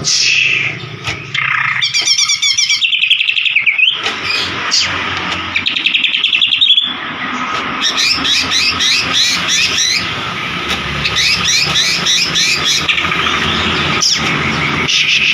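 White-rumped shama (murai batu) singing loud, fast strings of repeated notes and trills, a lure song of the kind used to provoke a caged shama into singing back.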